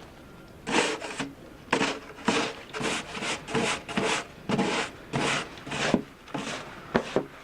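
Snow being scraped and crunched in short, quick strokes, about two a second.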